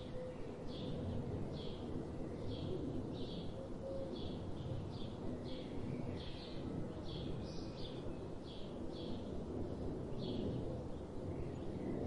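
A bird calling in short repeated notes, about one to two a second, over a steady low background rumble.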